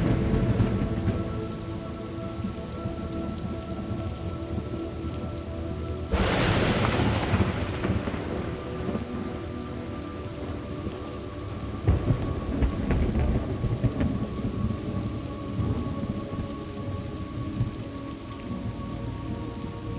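Thunderstorm: steady rain with rolling thunder. A rumble sounds at the start, a sharp thunderclap hits about six seconds in and fades over a couple of seconds, and another rumble of thunder comes about twelve seconds in.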